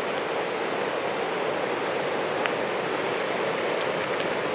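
Strong gusting wind, 45 to 50 mph gusts, rushing through trees in a steady loud roar, a howl that sounds like a rocket going off.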